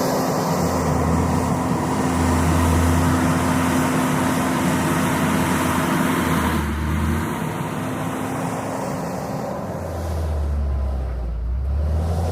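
JCB 426ZX wheel loader's diesel engine running steadily while working. The level dips a little about eight seconds in, then picks up again near the end.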